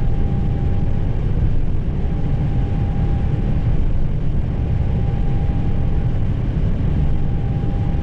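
Airbus A320 cockpit noise while taxiing: a steady low rumble, with a faint thin tone that fades in and out about every two seconds.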